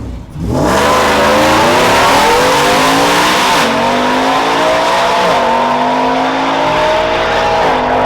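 Drag-racing truck launching and accelerating hard at full throttle, the engine's pitch climbing and dropping back at three upshifts.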